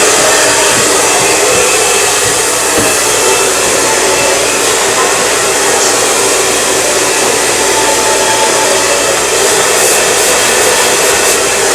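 Handheld blow dryer running steadily on high, blowing air through a section of long hair being worked with a round brush.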